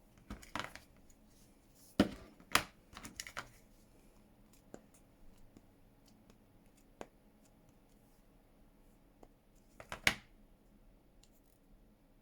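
Craft supplies being handled on a desk: a few sharp knocks and taps, as of a rubber stamp and ink pad being picked up and set down, with light clicks between them.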